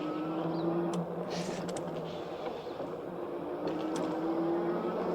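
Electric bike motor whining while riding, its pitch slowly rising and dipping, over a steady rush of tyre and wind noise with a few light clicks.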